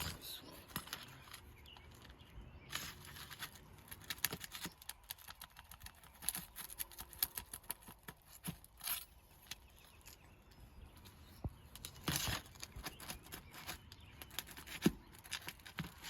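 Hand tools working at roof shingles during a shingle repair: irregular clicks, taps and scrapes, with a longer scrape about twelve seconds in and a sharp knock near fifteen seconds.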